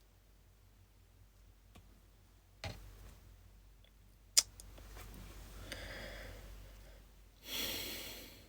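A person breathing out close to a microphone, a soft breath and then a louder sigh-like exhale near the end, with a small knock and a sharp click before them.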